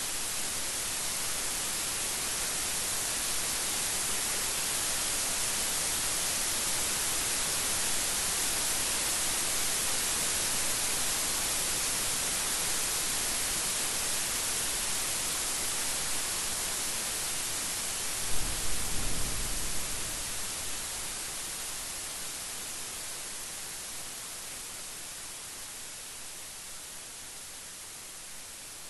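Steady heavy rain hissing, swelling slightly and then easing off toward the end. About two-thirds of the way in comes a short, low clap of thunder.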